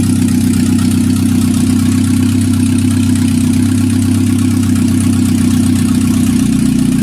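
Chevrolet Niva's two-litre petrol engine idling steadily, heard up close in the open engine bay.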